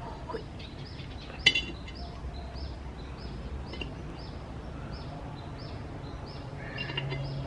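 A bird repeats a short, high, falling chirp about twice a second. About a second and a half in, a plant pot is set down on the floor with one sharp knock.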